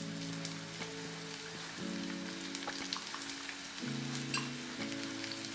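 Chicken pieces in a flour and cornstarch coating frying in oil in a pan, a steady sizzle with scattered small pops. Background music of held chords plays over it.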